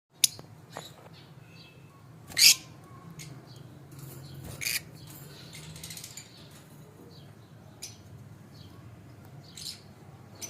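Lovebirds giving short, sharp chirps and squeaks at irregular intervals, the loudest about two and a half seconds in, over a steady low hum.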